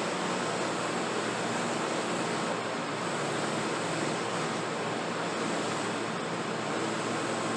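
Steady rushing noise of a workshop machine running without a break, with a faint low motor hum under it.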